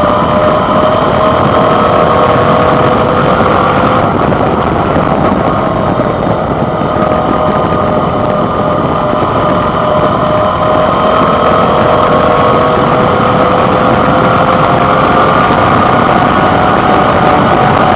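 Suzuki DL650 V-Strom's 645 cc V-twin engine running at fairly steady revs, its pitch drifting slowly up and down, heard from the handlebar with a steady rush of wind and road noise.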